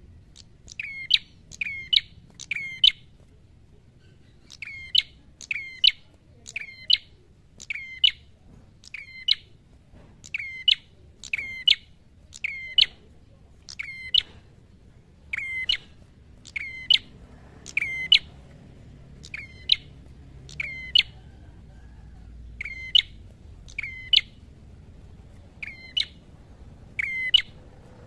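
A caged red-headed prenjak, a small rufous-headed grey warbler, calling hard in fighting mode. It repeats a short, sharp, high chirp about once a second, with a couple of brief pauses.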